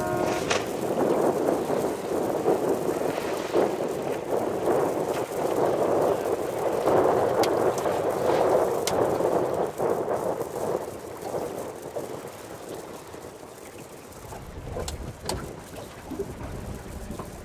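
Wind buffeting the microphone over water, with boat and water noise; it is loud and uneven, and eases off in the last few seconds. A horn blast cuts off at the very start, and a few sharp clicks come near the end.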